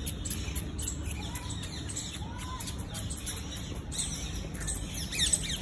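Birds chirping in short, high calls, several of them sliding down in pitch near the end, over a steady low rumble.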